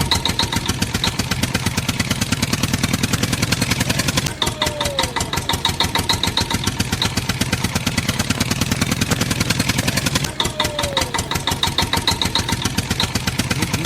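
Tractor engine sound running steadily with a rapid even pulse, a loop that repeats about every six seconds.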